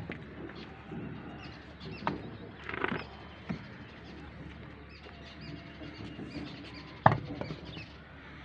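Rural outdoor ambience with small birds chirping, broken by a few short sharp sounds, the loudest about seven seconds in.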